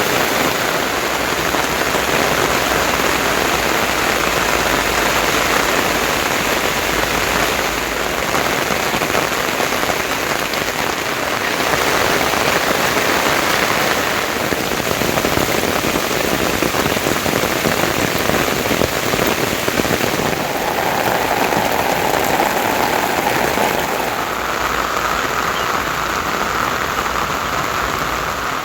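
Steady, fairly loud rain falling and pattering on surfaces, an even hiss without pause.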